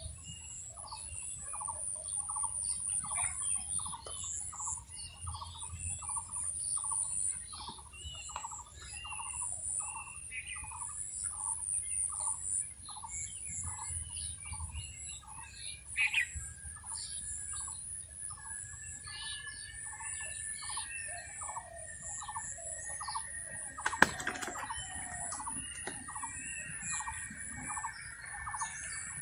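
A bird calling over and over, about two short notes a second, over a steady high hiss. About three-quarters of the way through there is one sharp click.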